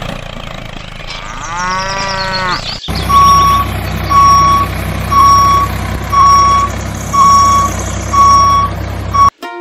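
A cow moos once, a single call rising and falling, over a steady vehicle engine hum. Then a reversing alarm beeps about once a second over the engine until the sound cuts off suddenly near the end.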